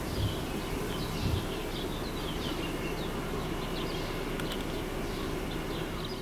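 Intercity train pushed by its electric locomotive rolling away over the tracks, a steady rumble, with birds chirping over it.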